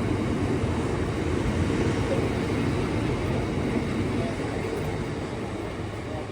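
Freight train of loaded aggregate wagons running past at speed: a steady rumble of wheels on rail that eases slightly near the end and then cuts off.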